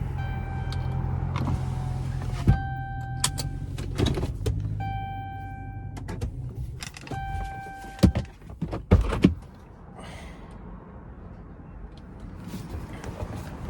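A straight-piped Chrysler 300S Hemi V8 idles, and its rumble drops away about five seconds in. A car warning chime rings in four short spells, with sharp clunks of doors or trim, the loudest three coming together near the middle.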